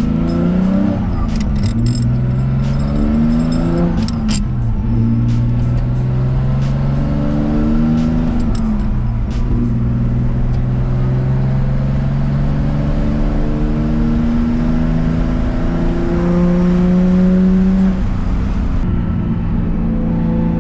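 Nissan RB25DET turbocharged straight-six in an R32 Skyline, heard from inside the cabin, pulling up through the gears of its manual gearbox: the engine note climbs and drops back at shifts about two, four and nine seconds in, then holds nearly steady while cruising.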